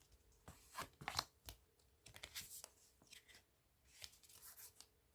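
Faint handling of tarot cards: a series of soft card clicks and paper-like rustles as cards are picked up, moved and laid down.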